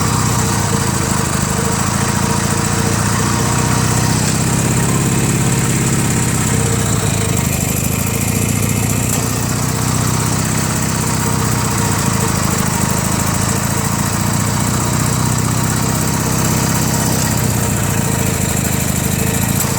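Small engine of a homemade rat-rod riding mower running steadily through its original exhaust, a continuous even throb with only slight changes in speed.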